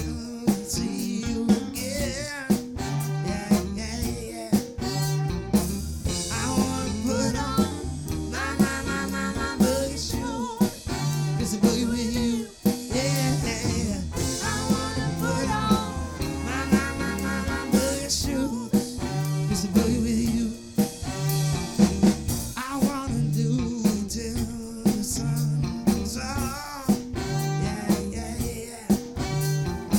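Live band playing an upbeat number with a steady drum beat, bass and guitar.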